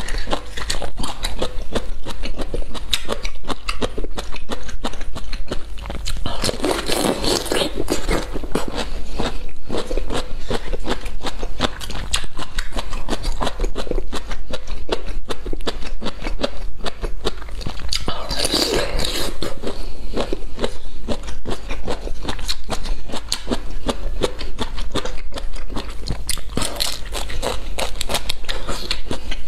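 Crunching and chewing of whole cooked bamboo shoots, bite after bite, as a dense run of crisp clicks and crunches.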